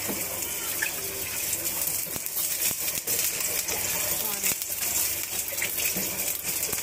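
Chicken sausage frying in hot oil: a steady sizzle with many small crackles and pops.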